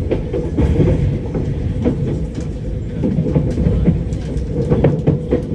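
Passenger train running along the line: a steady low rumble with irregular clacks and knocks from the wheels and carriage.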